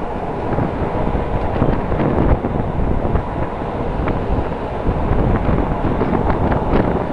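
A moving passenger train heard from an open window: steady running noise of wheels on rails, with wind buffeting the microphone and scattered sharp clicks.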